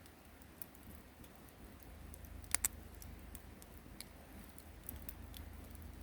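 Wood campfire crackling: scattered faint snaps, with two sharp pops in quick succession about two and a half seconds in.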